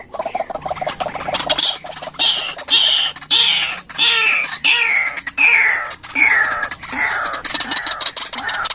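White-breasted waterhen calling. Quick low clucking notes give way about two seconds in to a string of about ten loud, falling squawks, a little under two a second.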